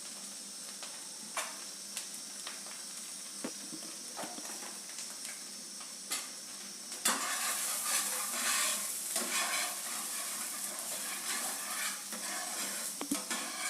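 Spiced gravy sizzling in a pan while a spoon stirs it, with scattered clicks of the spoon against the pan. The stirring and sizzling grow louder and rougher about seven seconds in.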